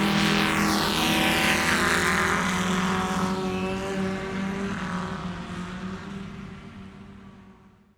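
Car engine running steadily, with a pitched hum and a rushing noise that sweeps across the higher pitches in the first couple of seconds. It fades out gradually over the last few seconds and ends abruptly.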